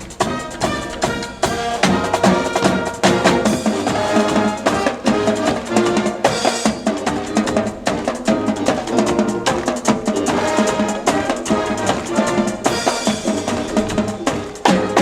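Band music with drums and percussion, pitched instruments over a steady drum beat.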